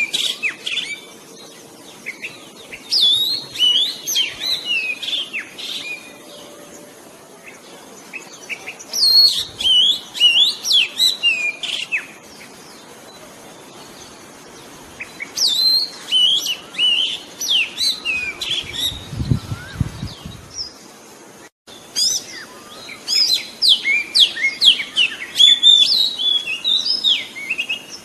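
Oriental magpie-robin (murai cacing) singing: bouts of quick, high whistles and chirps sliding up and down in pitch, each lasting a few seconds, with short pauses between them.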